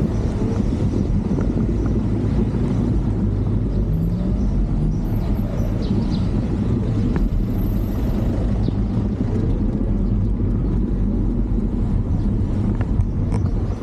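A vehicle engine running steadily with a low rumble under a haze of wind noise on the microphone; the pitch rises briefly about four seconds in.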